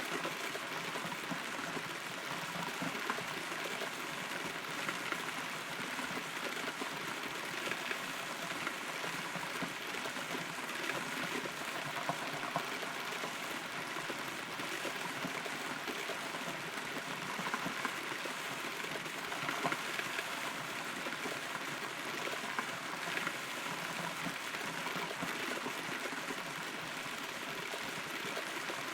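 Steady rain heard from inside a hollow rotten tree, with occasional louder drops landing close by.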